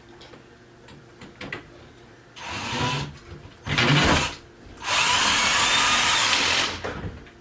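Cordless drill-driver running in three short bursts, the last and longest lasting about two seconds, as it drives a fastener during flat-pack furniture assembly.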